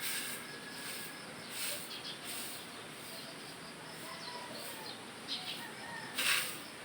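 Rustling swishes as yard litter is cleared, a handful of separate strokes with the loudest near the end, over faint bird chirps.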